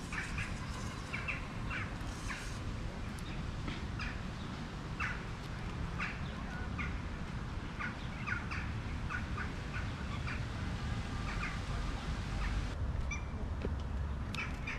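Small birds chirping: many short, separate chirps at irregular intervals, over a steady low outdoor rumble.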